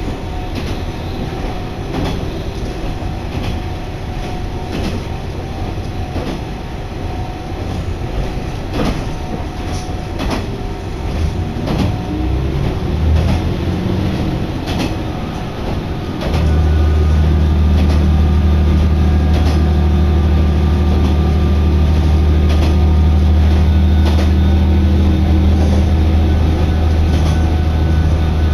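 Diesel railcar running on jointed track, its wheels clicking over rail joints under a rumble. About halfway through, a steady deep drone from the diesel engine comes in and becomes the loudest sound.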